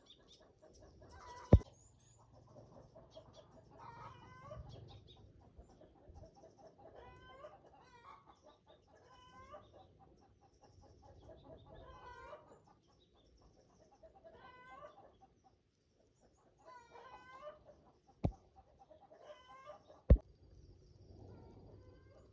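An animal calling over and over, a short wavering call about every two to three seconds, with three sharp knocks, the loudest of them about a second and a half in.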